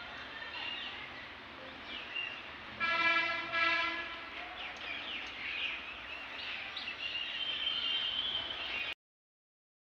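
A horn sounds one steady, flat note for about a second and a half, about three seconds in, over birds chirping. The sound cuts off suddenly near the end.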